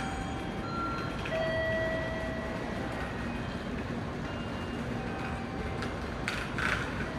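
Tokaido Shinkansen train noise at the station platform: a steady rumble and hiss, with faint held tones that shift in pitch every second or two. A short burst of hiss comes near the end.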